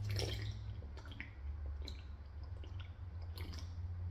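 Close-miked wet chewing with small moist mouth clicks and lip smacks from a mouthful of food.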